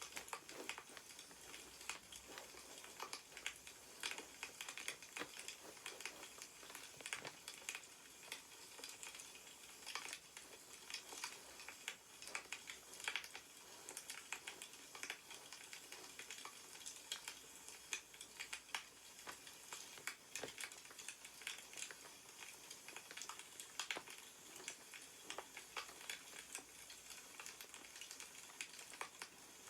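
Faint crackling of a wood fire: irregular small pops and snaps over a soft steady hiss.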